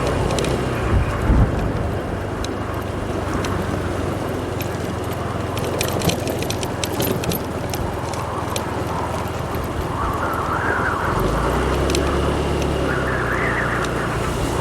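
Motorbike engine running on a rough forest track, with heavy wind noise on the microphone. A scatter of sharp clicks comes about halfway, and the engine swells twice in the last few seconds.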